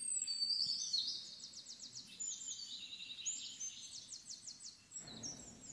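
Small birds chirping, with short high whistled notes and two runs of quick trills. A faint low hiss joins near the end.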